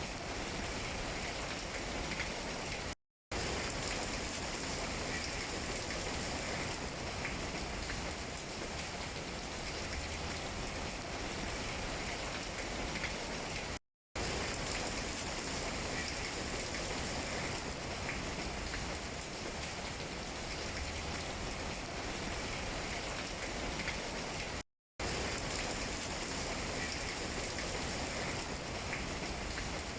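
Steady rain falling on tree leaves, an even hiss of many drops, broken three times by a brief, sudden gap of total silence about eleven seconds apart.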